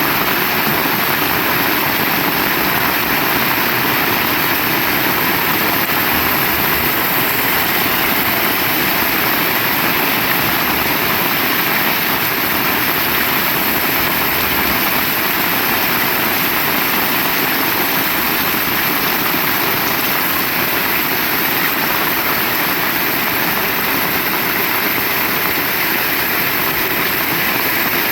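Heavy rain pouring steadily, a dense even hiss with no letup, with strong wind.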